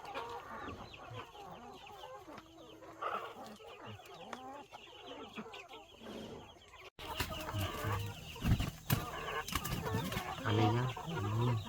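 Chickens clucking and chirping. About halfway through, the sound cuts to a louder stretch with a few sharp knocks among the clucking.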